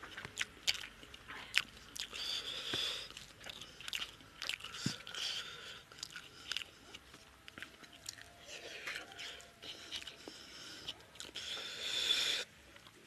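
A person chewing a mouthful of rice and chicken curry with wet mouth smacks and many short clicks, along with the squish of fingers mixing rice into gravy on a plate.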